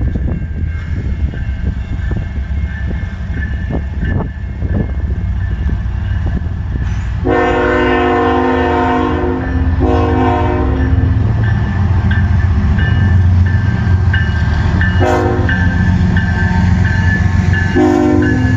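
CN freight train's diesel locomotives rumbling as they approach a grade crossing, the multi-chime air horn sounding four times: two long blasts, a shorter one and a final long one still going at the end, the standard crossing signal. A crossing bell dings steadily underneath.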